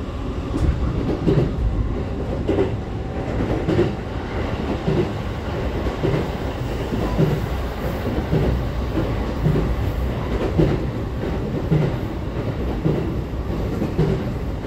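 Cabin running noise of a JR East E531 series unpowered trailer car (SaHa E531): a steady rumble of steel wheels on rail, with a rhythmic clatter over rail joints about once a second.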